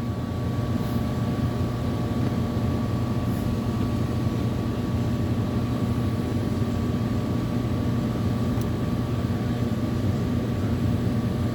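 Steady hum of running air-conditioning equipment: a low, even drone with a faint high steady tone over it.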